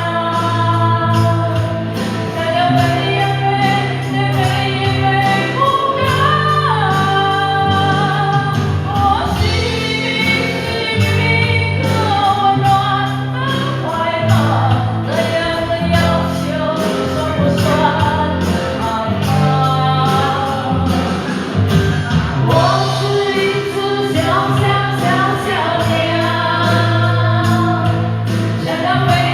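A Mandarin pop song performed live: singers carrying the melody over band accompaniment, with sustained bass notes and a regular beat.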